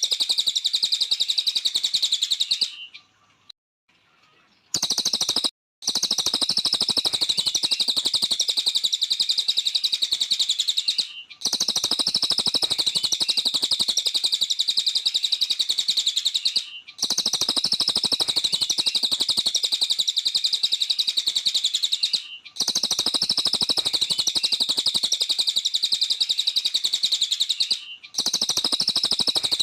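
A cililin bird singing vigorously (gacor): a rapid, unbroken stream of high chirps and twitters in long phrases of about five seconds, each ending in a brief pause. There is a longer silence about three seconds in.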